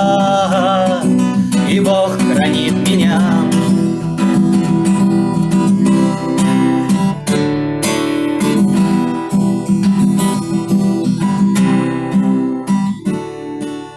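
Acoustic guitar strummed, playing the closing chords of a song; a last sung note is held and wavers off in the first few seconds, and the playing thins out near the end.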